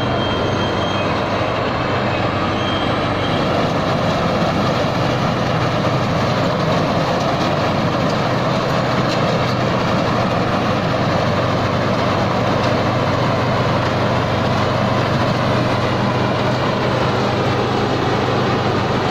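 Thai Seng rice combine harvester's engine running steadily under load while harvesting through deep mud, a constant low engine hum with a dense mechanical clatter over it.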